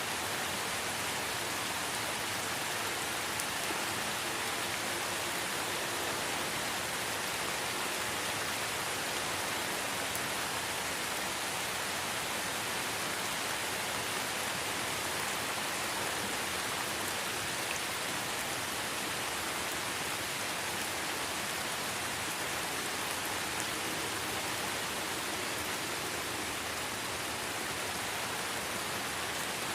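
Light rain falling steadily, a continuous even hiss of many small drops with no single drop standing out.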